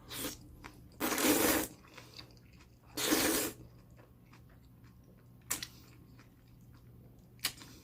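A person eating jjolmyeon close to the microphone. There are two longer noisy mouthfuls, about a second in and about three seconds in, then chewing with a couple of short sharp mouth clicks.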